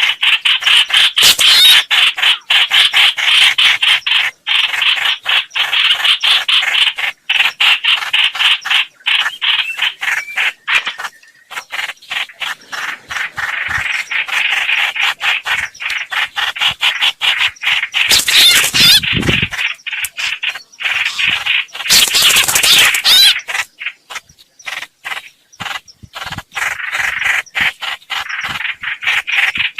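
Lure recording of chim hoành hoạch bird calls: rapid, harsh chattering notes repeated almost without a break, with two short louder noisy bursts about two-thirds of the way through.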